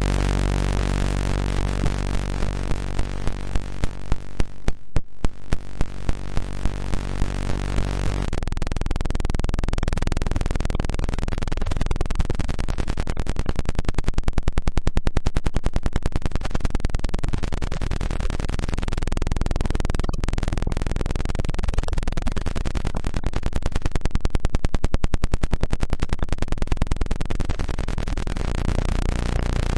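Electronically generated tones: a low buzzing tone with many overtones, pulsing about twice a second, changes about eight seconds in to a rapidly fluttering, noisy hum that swells and fades slowly twice.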